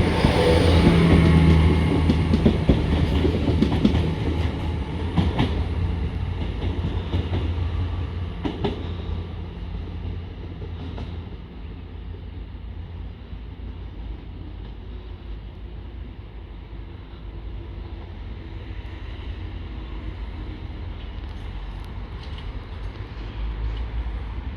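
A train running past with its engine and wheels rattling, loud at first and fading over about ten seconds as it moves away, leaving a lower steady rumble that cuts off suddenly at the end.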